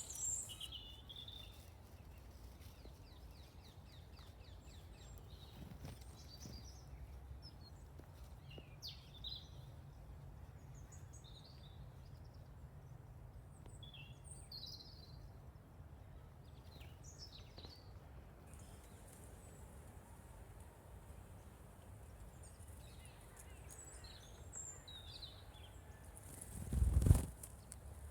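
Great tits and a European robin giving scattered short high chirps and call notes over a low, steady rumble. About a second before the end there is one brief loud thump.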